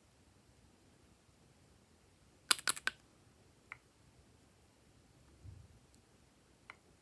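A quick run of four sharp clicks, then a fainter single click, a soft low thump and two small clicks near the end, against quiet room tone.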